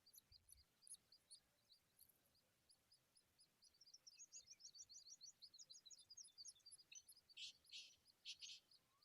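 Faint, high bird chirps repeating a few times a second, with a quicker run of chirps in the middle and a few louder, harsher calls near the end.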